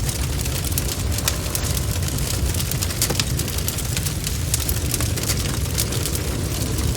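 Bonfire burning: a steady low rumble with frequent sharp, irregular crackles and pops from the burning wood.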